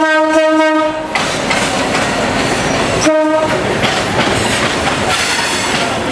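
Train locomotive horn sounding one blast of about a second, then a shorter second blast about three seconds in, over the steady rumble and clatter of a passenger train's wheels on the rails.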